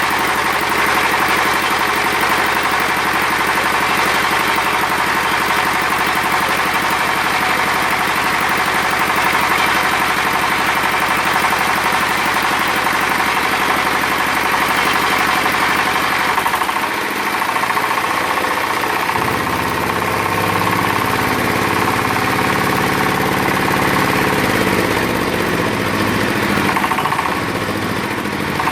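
Small diesel engine of a concrete cutting saw running steadily; about two-thirds of the way through its note shifts, dipping briefly and then settling into a different, lower running sound.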